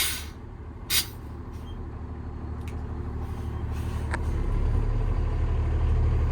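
Peterbilt 337's Paccar PX9 8.9-litre diesel running, with a short hiss of released air from the air brakes about a second in. The engine then grows steadily louder as the truck pulls away.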